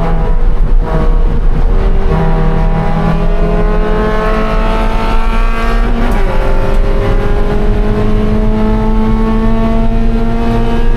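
2013 Scion FR-S race car's 2.0-litre flat-four engine pulling hard, its pitch climbing for several seconds, dropping once at an upshift about six seconds in, then climbing again.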